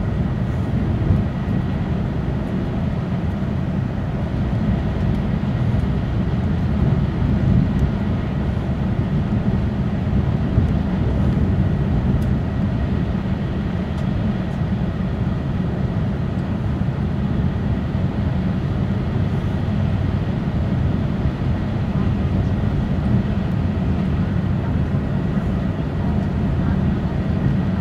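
Running noise inside the passenger car of an E6 series Shinkansen train at speed: a steady low rumble from the running gear on the track.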